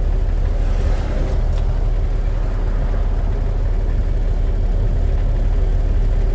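Diesel engine of a Kenworth K100 cabover semi truck running as it pulls away slowly, heard from inside the cab: a steady low rumble with a steady hum over it. A brief faint hiss about a second in.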